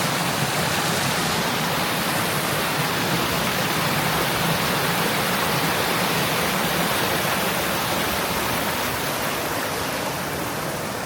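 Steady rush of water falling down a waterfall, easing off slightly near the end.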